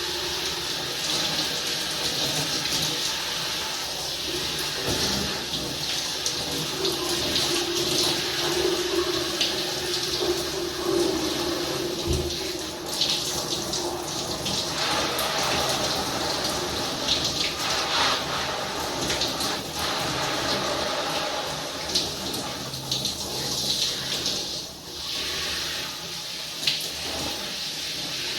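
Running water splashing, rising and falling unevenly. A low hum sounds under it for several seconds, starting about a quarter of the way in.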